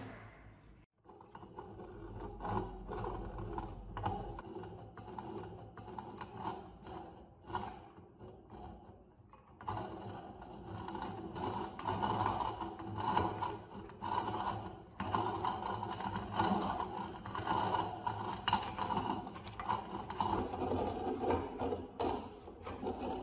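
Antique hand-cranked meat grinder being turned, its metal mechanism working with irregular clicking and scraping.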